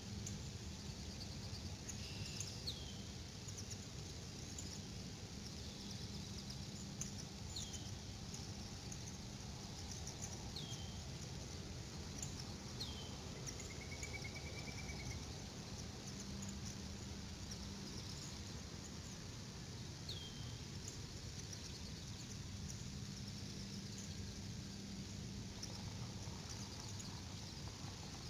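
Faint bird chirps: short, high, falling notes every few seconds, with one brief trill about halfway through, over a steady outdoor hiss and a low hum.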